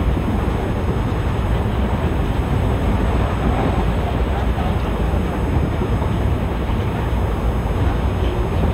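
ICF passenger coach running along the track: a steady rumble of wheels on rails with air rushing past, no distinct rail-joint clicks.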